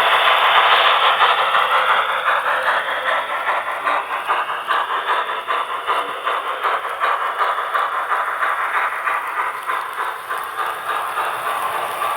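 HO-scale model train running on track: a steady rattle of wheels on the rails with many small regular clicks, and a thin motor whine that shifts in pitch during the first few seconds.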